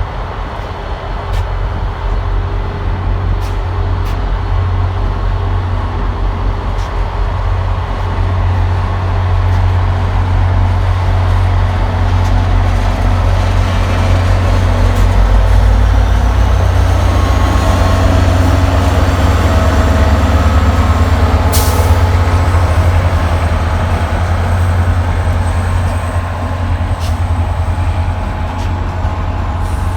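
Train running with a steady heavy low rumble and held machine tones. A faint high whine rises about halfway through and then holds, and there is one sharp click about two-thirds of the way in.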